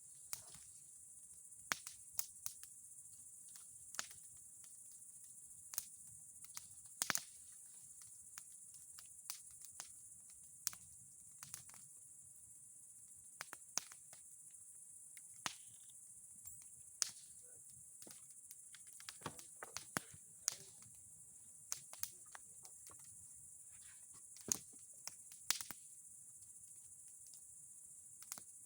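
Bonfire of old boards and pine cones crackling: sharp irregular pops about every second or so, over a steady high hiss.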